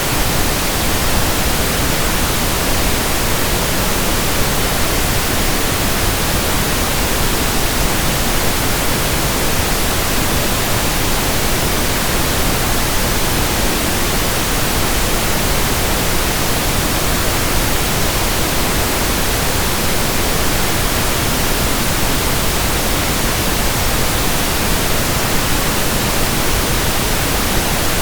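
Generated pink noise: a steady, even hiss that never changes, spread from deep rumble to high hiss.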